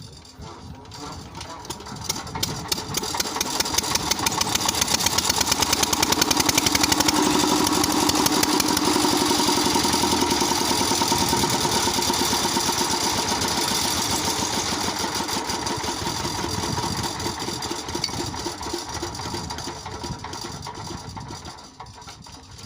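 An 8 hp Rajkot single-cylinder diesel pump engine running, with a rapid, even beat of firing strokes. It gets louder over the first several seconds, then slowly fades toward the end.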